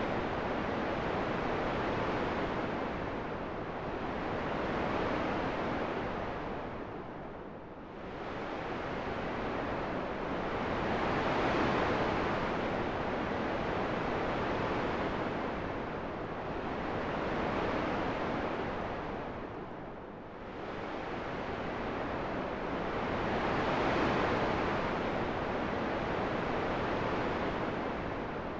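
Wind: an even rushing noise that swells and fades in slow gusts, easing off to its lowest twice, about a quarter and two-thirds of the way through.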